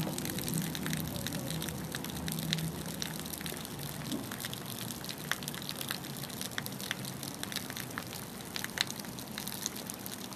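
Rain falling steadily, with many sharp drops and drips ticking close by.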